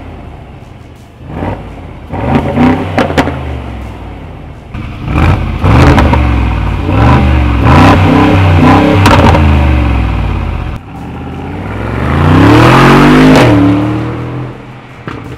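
2020 Mercedes-AMG G63's twin-turbo V8 being revved repeatedly through an Akrapovic aftermarket exhaust. It gives two short blips, then a run of quick revs in the middle, then one long rev near the end that falls away.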